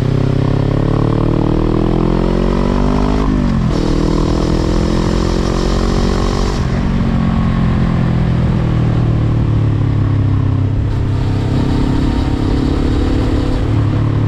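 Suzuki GSX250R parallel-twin engine through a Tadao Power Box pipe and WR'S muffler, pulling up through the revs. About three seconds in the pitch drops sharply, as at an upshift, then climbs again. Past the middle it eases off and runs fairly steadily.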